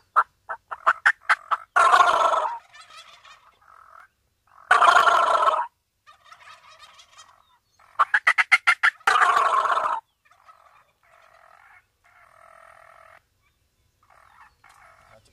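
Rio Grande wild turkey gobblers gobbling: three loud gobbles about three seconds apart, then several fainter gobbles. A quick run of short turkey calls comes at the start and again just before the third gobble.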